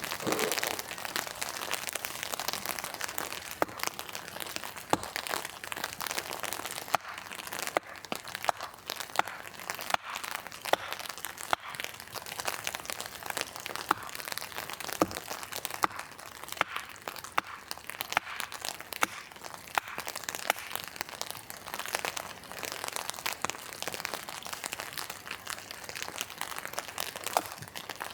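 Steady rain hissing, with many small sharp clicks and crackles scattered through it.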